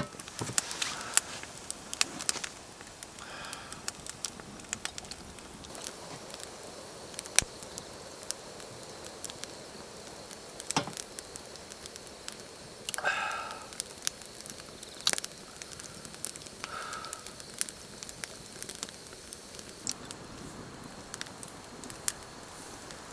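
Wood campfire crackling, with scattered sharp pops. A short pitched call sounds three times over it.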